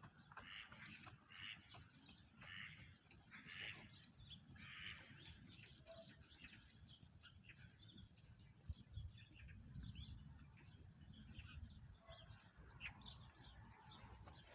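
Birds calling faintly: a run of harsh calls about a second apart in the first five seconds, then many short high chirps.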